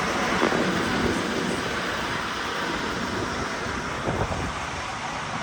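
Steady running noise of a moving vehicle: a constant rumble and rush with no distinct events.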